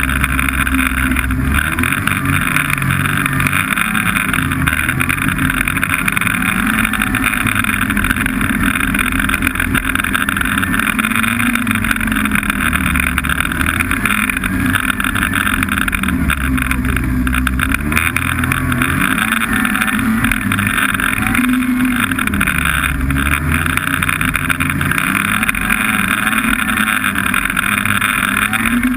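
Snowmobile engine running under way, its pitch rising and falling several times as the throttle changes.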